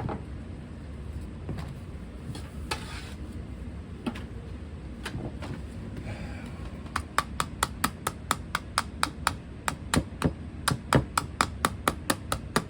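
Scattered knocks and scraping on a sand-casting mold. About seven seconds in, rapid light tapping starts, about four taps a second: rapping to loosen the pattern in the packed casting sand so it can be lifted out.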